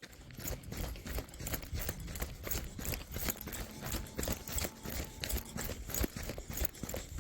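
Footsteps hitting a mountain trail in a quick, irregular run of knocks over a low rumble.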